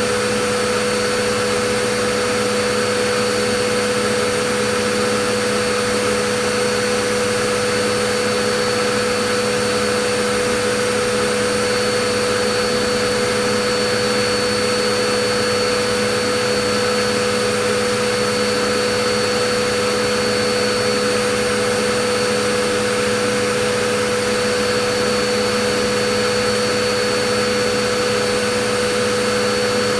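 Vacuum cleaner motor running continuously, a steady rushing noise with a constant whine and hum and no change in pitch or level.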